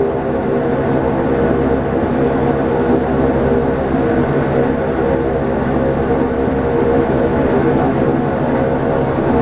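Cabin noise of a Saab 340B in flight: a steady drone from its twin turboprop engines and propellers, with a stack of even hum tones over a constant rumble.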